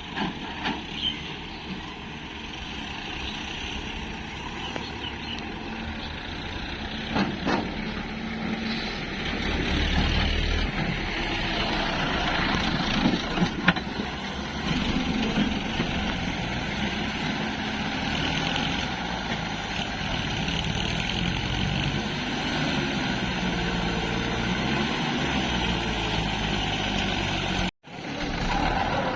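Diesel engines of an excavator and tractors running at work, a steady engine drone with a few short knocks. The sound cuts out for a moment just before the end.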